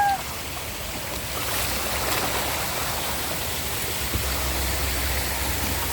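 Steady rush of splashing water at a waterpark, with a low rumble coming in about four seconds in.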